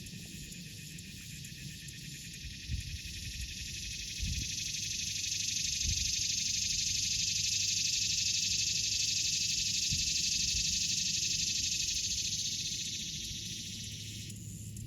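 A dense, steady chorus of high buzzing animal calls, the kind made by massed insects or frogs. It swells about four seconds in, then fades, and its lower part cuts off suddenly near the end. Soft low thumps and rumbling lie underneath.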